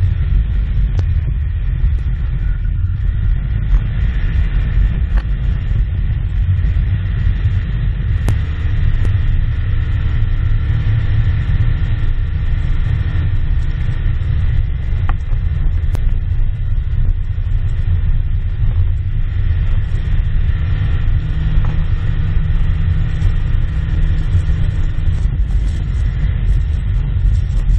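Engine of a working machine running with a loud, steady low rumble, and a few faint clicks and knocks.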